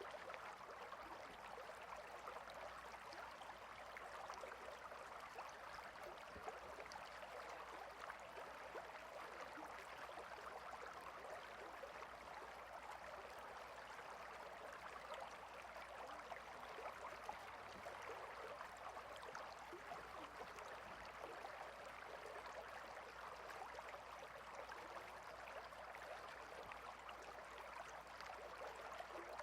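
A small stream running steadily, its water babbling and trickling without a break.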